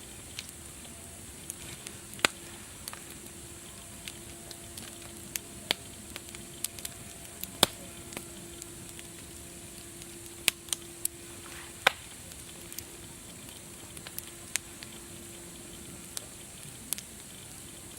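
Wood fire crackling: a steady hiss broken by irregular sharp pops and snaps, a few of them much louder than the rest.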